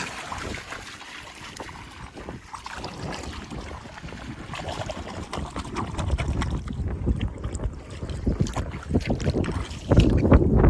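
Wind buffeting the microphone over water sloshing and splashing, building up about halfway through and loudest near the end.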